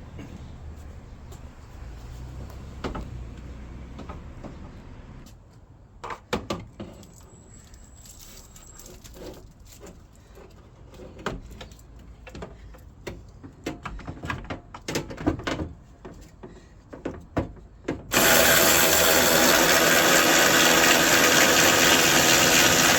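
Scattered metallic clinks and knocks of tools working on a bolt, then a power drill runs steadily for about five seconds near the end, the loudest sound.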